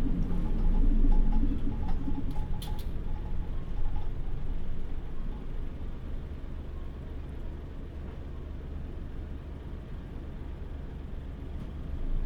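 Interior sound of a Mitsubishi Fuso Aero Star (PJ-MP35JM) city bus's diesel engine. Its pitched engine sound fades out in the first two seconds, then a steady low idle rumble carries on, with a brief click a little under three seconds in.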